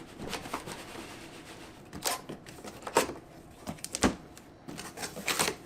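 Cardboard box and packaging being opened and handled: irregular knocks, taps and rustles, with the sharpest knocks about three and four seconds in.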